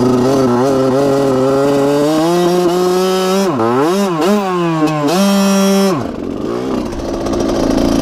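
Dirt bike engine running under throttle, its pitch climbing steadily, then dipping and rising twice in the middle before holding briefly. About six seconds in the engine note drops away.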